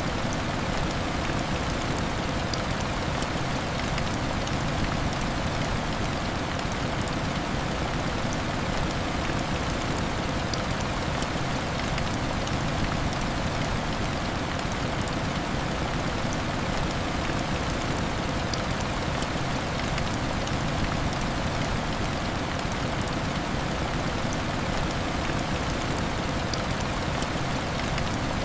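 Heavy rain beating steadily on window glass: a dense, even hiss with scattered small ticks of drops.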